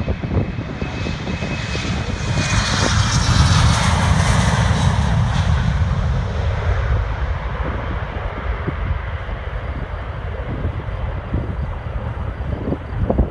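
Airliner passing close by, its engine noise swelling to a peak about three to four seconds in and then slowly fading away.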